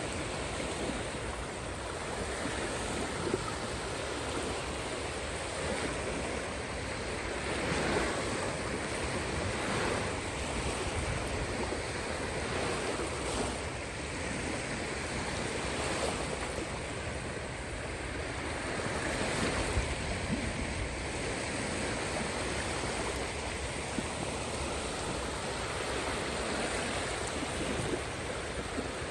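Caspian Sea surf: a steady wash of waves, swelling and easing every few seconds.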